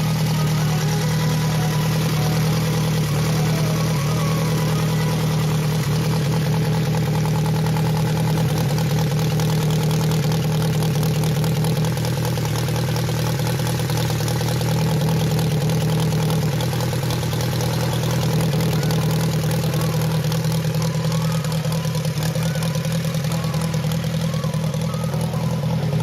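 An engine running steadily at a constant speed, with an even, rapid firing pulse and no revving.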